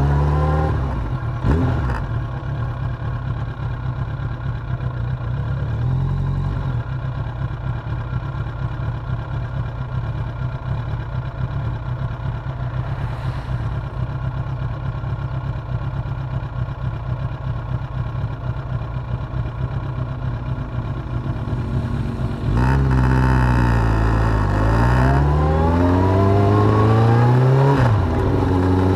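Suzuki GSX750F inline-four engine under way: steady running for most of the stretch, then about two-thirds through it revs up louder, the pitch climbing through a gear, dropping at a shift and climbing again before easing near the end.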